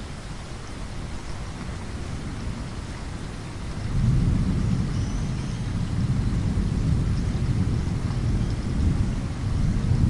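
Steady hiss of rain falling against a window, with a low rumble of thunder rolling in about four seconds in and swelling again near the end.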